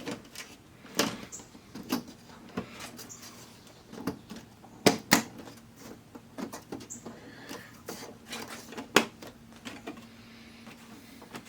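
Scattered clicks and knocks of TV parts being handled and set in place during reassembly, with a few louder knocks at irregular intervals.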